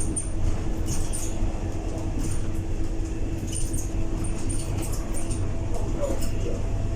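Inside a Scania K230UB single-deck bus: the engine is running with a steady low drone, and short high-pitched rattles and squeaks come from the interior fittings again and again.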